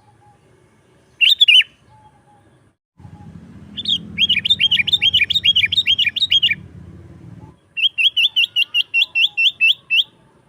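Sooty-headed bulbul (kutilang) singing: a short call about a second in, then two fast runs of repeated high, down-slurred notes at about six or seven a second.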